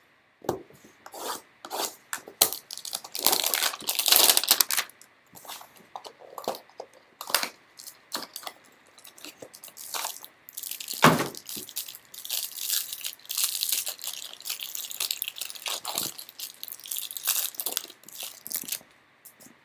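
Trading card packaging being torn open and crinkled, with cards rubbing and sliding against each other as they are handled. There are irregular rustles and crackles, busiest about 3 to 5 seconds in and again through the second half.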